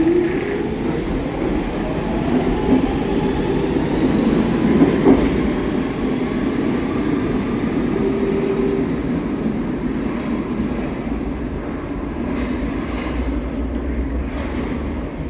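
New York City subway train running on the rails with a steady rumble. A motor whine rises in pitch over the first few seconds as the train gathers speed.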